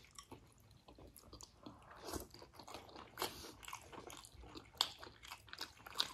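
A person chewing momo dumplings close to the microphone: many short, irregular mouth clicks.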